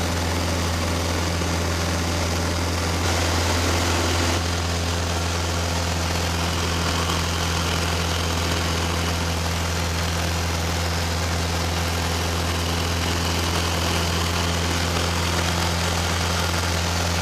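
Light aircraft's piston engine and propeller droning steadily, with a deep, even hum.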